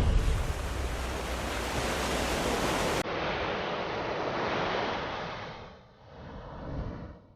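Ocean surf: a steady wash of breaking waves. About three seconds in it cuts to a second, duller recording that fades away, swells once more near the end and stops.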